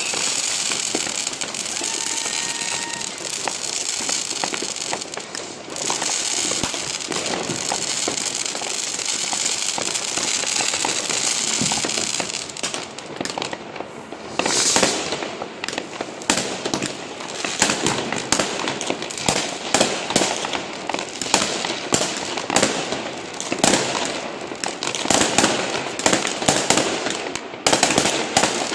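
Fireworks and firecrackers going off: a dense crackling hiss for the first twelve seconds or so, then many sharp bangs and cracks in quick, irregular succession.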